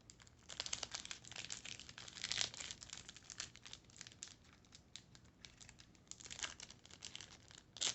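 Foil wrapper of a Topps baseball card hobby pack crinkling and tearing as it is opened, a run of crackles with a quieter stretch about five seconds in.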